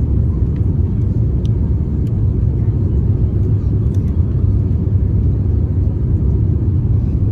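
Steady low rumble of cabin noise inside an Airbus A350-900 airliner, from its engines and the airflow, with a few faint ticks.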